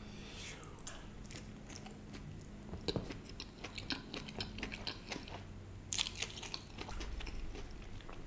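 Close-miked chewing and biting of a steamed veg momo: wet mouth clicks and smacks that come thicker about three seconds in, with a louder cluster around six seconds.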